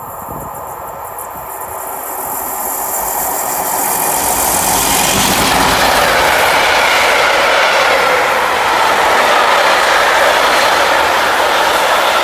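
Container freight train approaching and passing at speed. Its noise grows over the first four or five seconds, then stays loud and steady as the line of container wagons goes by.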